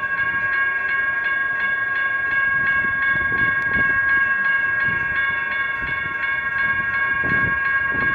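Electronic railroad crossing bells ringing in a fast, even, repeating strike, about three to four strokes a second, with the low rumble of a freight train swelling underneath.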